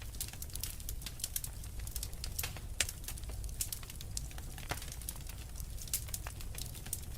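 Wood fire crackling, with frequent irregular pops and snaps (the loudest about three seconds in) over a steady low rumble.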